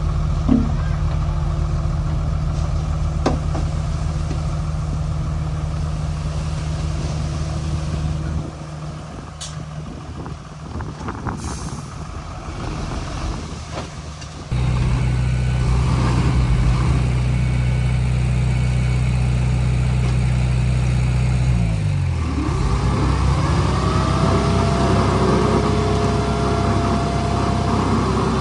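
Diesel engine of a Komatsu D31P bulldozer running steadily, with the level dropping for several seconds partway through and then jumping back abruptly. Past the middle the engine note dips, and a rising whine comes in and then holds steady near the end.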